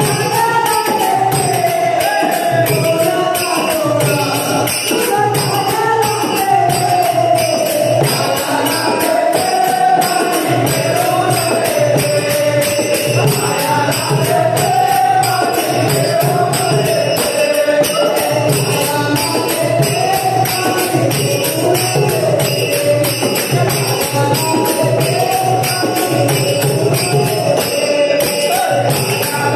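Voices singing a Marathi devotional bhajan in a continuous wavering melody, over small metal hand cymbals struck in a fast, steady beat and a pulsing low drum.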